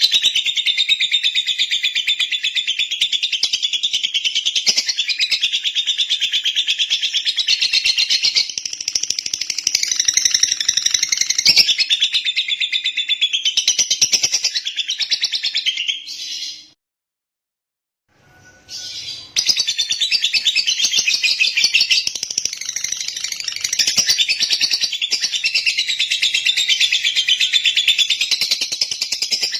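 Lovebird singing in a continuous, rapid stream of high chirps. It cuts out for about two seconds a little past halfway, then starts again.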